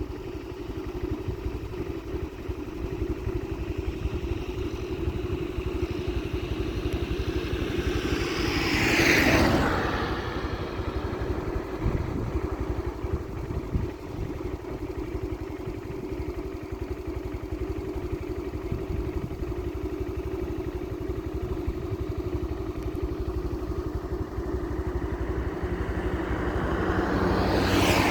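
A motor vehicle engine running steadily with road noise. The sound swells louder twice, about nine seconds in and again at the end.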